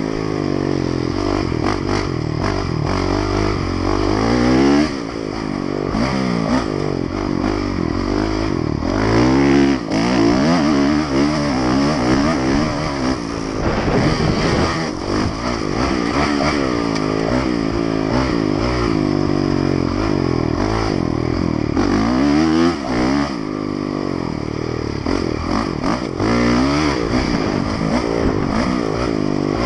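Honda motocross bike's engine at race pace, revving up and down over and over as the rider works through the gears and rolls off for turns.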